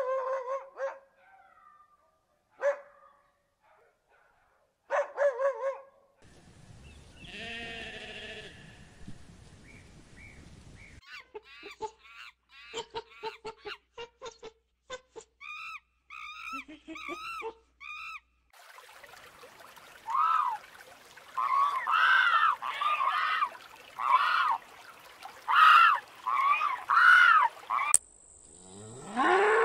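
A run of different animal calls, one kind after another, with a stretch of loud repeated calls in the second half.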